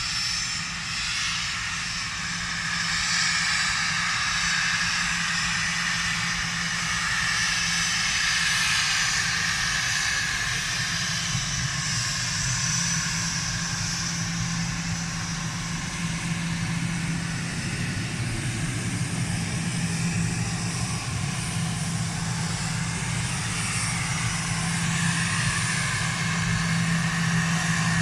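Airliner engines running at an airport, a steady low hum under a wavering high whine that swells slightly a few seconds in and stays loud.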